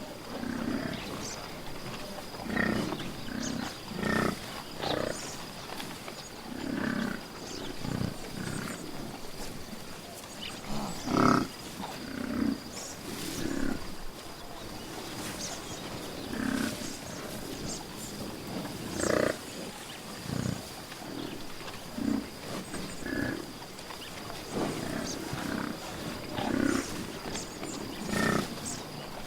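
A big cat calling in short, repeated growls and grunts, one every second or two, the loudest about eleven seconds in.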